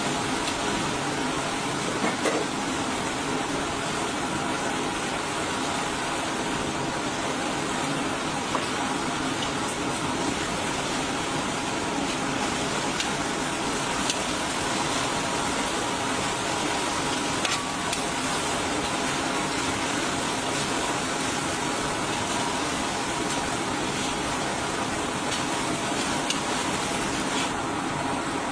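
Chicken pieces sizzling steadily in hot oil in a wide metal karahi, stirred with a metal skimmer, with a few light clicks of the skimmer against the pan.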